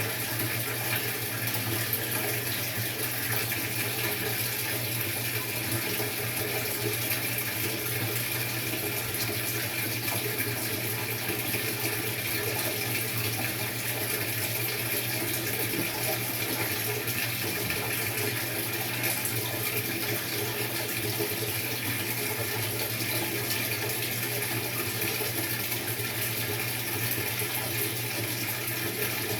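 Maytag top-load washing machine running a tub-clean cycle: a steady rush of water running in the tub, with an even low hum beneath it and no break or change.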